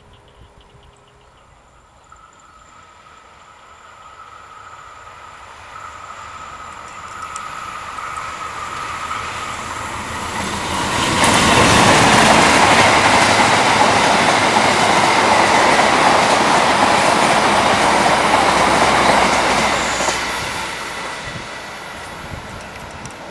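Passenger train led by a KAI CC206 diesel-electric locomotive approaching and passing at speed: a faint steady whine grows as it nears, then a loud rush of locomotive and coaches for about eight seconds that fades as it goes by.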